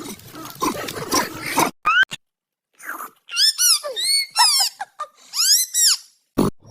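An animal calling: a run of high cries that rise and fall in pitch, starting about three seconds in after a short gap.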